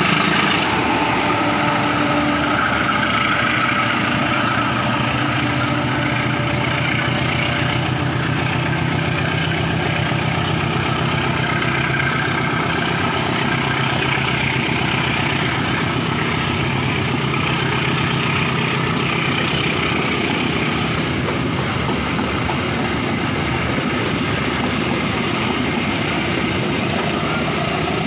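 A diesel train running steadily on the tracks, with a constant engine drone.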